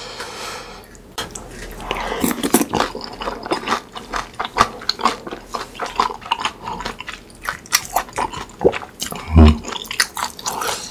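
Close-miked chewing of crispy fried chicken skin soaked in tteokbokki sauce: rapid wet crunches and crackles, with the loudest crunch near the end.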